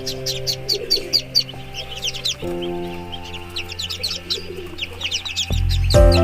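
Newly hatched Muscovy ducklings peeping: a rapid stream of many short, high-pitched chirps, each sliding downward, over background music of sustained chords.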